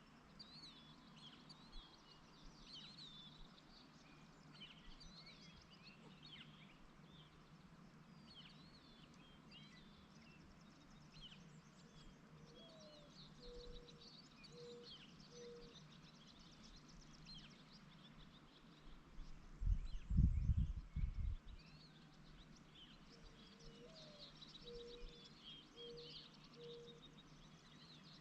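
Outdoor evening ambience: songbirds chirping on and off, and twice a low cooing call of one rising note followed by three short even notes. About two-thirds of the way through comes a brief low rumble, the loudest sound.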